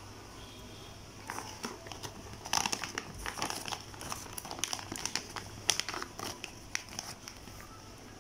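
Food packaging crinkling and crackling as it is handled and unwrapped, in irregular bursts of sharp crackles that start about a second in and run until near the end, over a low steady hum.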